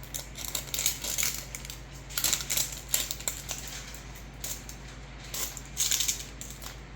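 A plastic toy egg and its loose plastic pieces being handled and opened, giving irregular rattling, clicking and crinkling.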